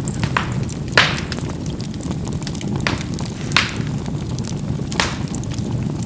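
Charcoal burning in a fireplace: a steady low rumble of flame with about five sharp pops and crackles as the charcoal bursts, the loudest about a second in.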